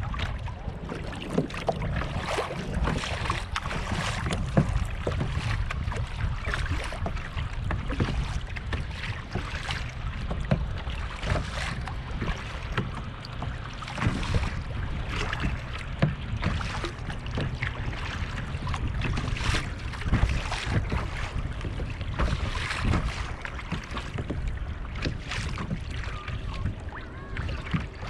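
Kayak paddle splashing into the water at irregular intervals, stroke after stroke, over a steady rumble of wind on the microphone.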